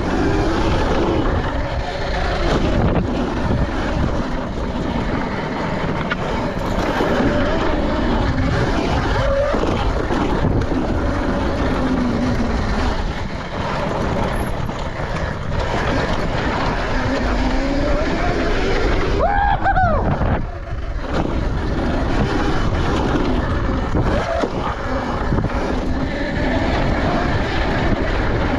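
KTM SX150 two-stroke dirt bike engine being ridden hard, its pitch rising and falling as the rider revs through the gears, with wind noise. About two-thirds of the way through it climbs to a sharp high rev, then drops off briefly.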